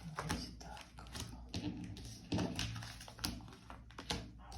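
Tarot cards being handled and laid out on a table: a run of irregular light taps and clicks.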